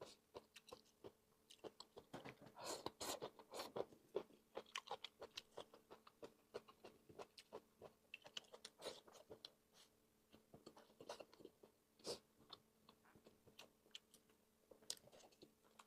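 Close-miked chewing of stir-fried bamboo shoots and meat: irregular soft crunches and wet mouth clicks, several every second.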